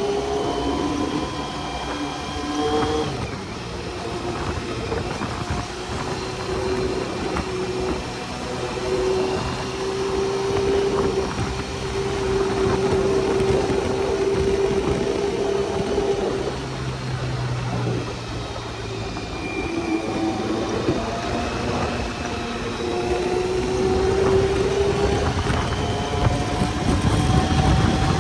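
Honda CBR400RR's inline-four engine running under way, its pitch rising slowly and dropping back several times, with wind noise rushing over the microphone.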